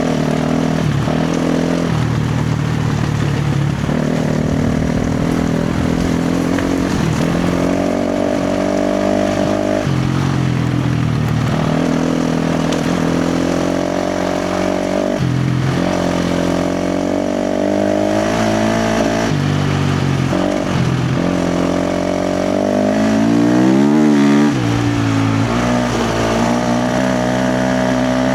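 KTM 350 XC-F four-stroke single-cylinder dirt bike engine ridden hard on the throttle. The pitch steps up and down every couple of seconds as the rider rolls on and off and shifts, with a run of quick rev blips near the end.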